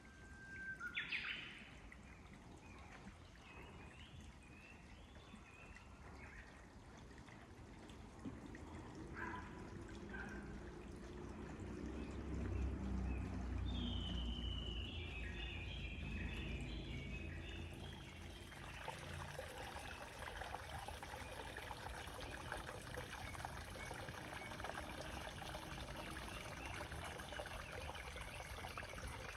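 Japanese bush warbler (uguisu) singing, one long whistle leaping into a quick higher phrase about a second in, with other small birds chirping and trilling, over steadily trickling water that becomes a fuller, even hiss in the second half. A low rumble swells in the middle.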